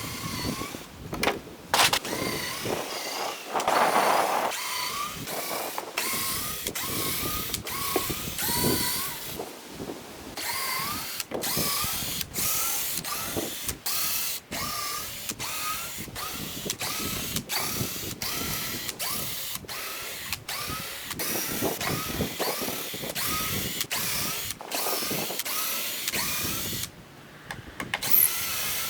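Cordless drill-driver running in many short trigger bursts one after another, its whine rising in pitch at the start of each burst, as it backs screws out of the cabin's timber.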